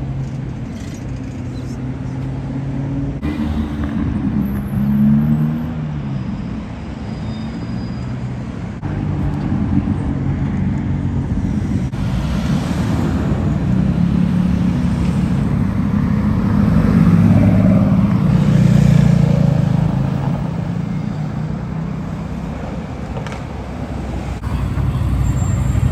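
Car engines running in slow city traffic: a low, steady engine note over road noise, with short revs that rise and fall in pitch about four to six seconds in and a louder swell about two thirds of the way through.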